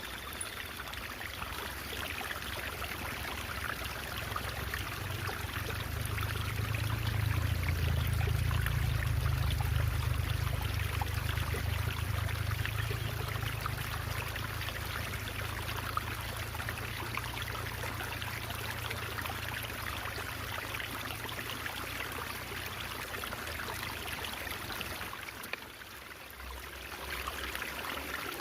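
Shallow stream water babbling and trickling in a steady, dense splashing, with a low rumble underneath that swells for several seconds in the first half and fades. The water dips briefly near the end.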